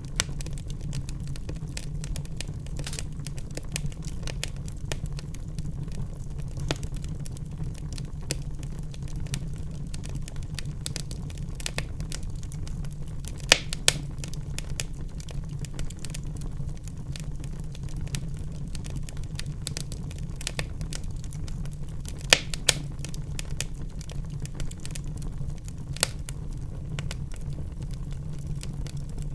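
Wood fire burning in a fireplace: a steady low rumble of flames with constant irregular crackling and a few louder pops.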